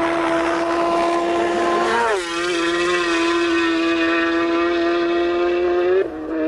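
Racing motorcycle engine held at high revs, a loud, steady, high-pitched note. It dips in pitch briefly about two seconds in, and cuts out for a moment near the end before picking up again.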